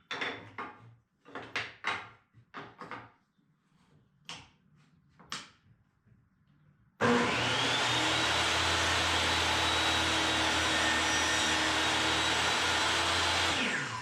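A few knocks and clicks of wood and tool handling, then about seven seconds in an electric table saw switches on, spins up and runs steadily for about six seconds before winding down near the end.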